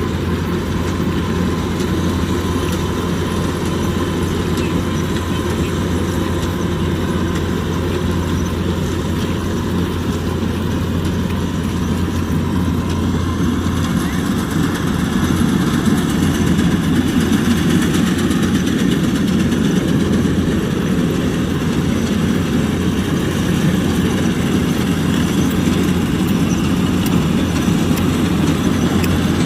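Kubota DC-105X combine harvester running steadily as it harvests rice, a continuous engine and machinery drone. About halfway through, the steady low hum gives way to a rougher, slightly louder sound.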